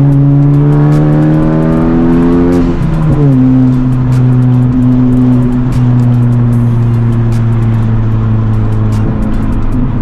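Modified Honda Civic Type R's turbocharged four-cylinder, with catless downpipe and resonator delete, pulling up through the revs. The pitch drops sharply about three seconds in, as at an upshift, then holds steady, and dips again near the end.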